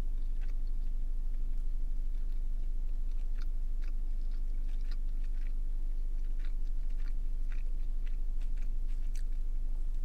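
A person chewing a mouthful of bacon cheeseburger with the mouth close to the mic: many small, irregular wet clicks and crunches all the way through. A steady low hum sits underneath.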